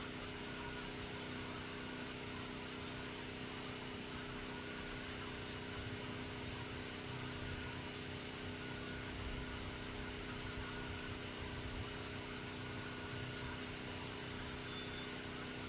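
Steady mechanical drone: a motor-driven machine running continuously, with constant hum tones over a hiss. The owner takes it for a compressor or a generator.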